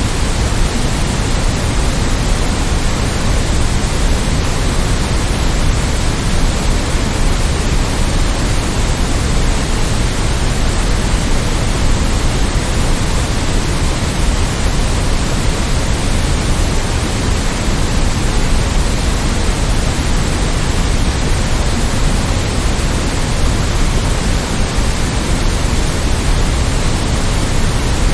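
Steady generated white noise: a constant, unchanging hiss spread evenly across the range, with more weight in the low end.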